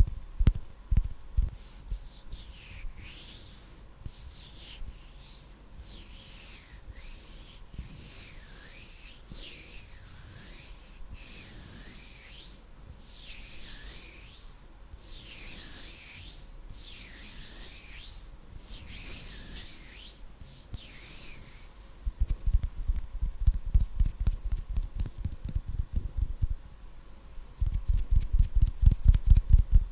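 Palms rubbing together close to the microphone in slow, even strokes, each a swell of dry hiss lasting about a second. About two-thirds of the way through it changes to rapid soft thumps of fingers patting close to the microphone.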